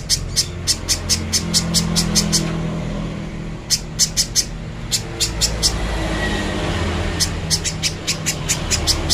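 Spiderhunter (pijantung pisang) calling: runs of sharp, high, evenly repeated notes at about five a second, breaking off a couple of seconds in and resuming in shorter runs. A steady low rumble, like road traffic, runs beneath.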